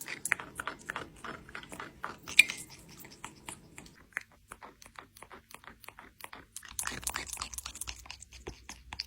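Chewing and crunching: quick irregular crunchy clicks, several a second, thinning out around the middle and picking up again near the end.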